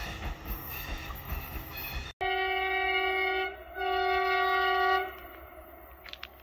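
A passenger train running past with rumbling wheel and rail noise, then a locomotive horn sounding two long blasts, each a steady chord lasting a little over a second, with a short gap between them.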